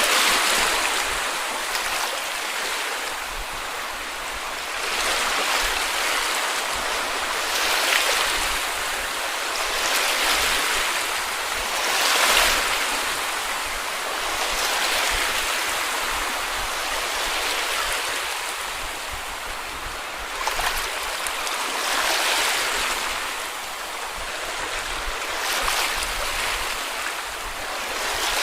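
Sea waves washing onto a beach: a steady hiss of surf that swells and ebbs every two to five seconds as each small wave breaks and runs up the shore.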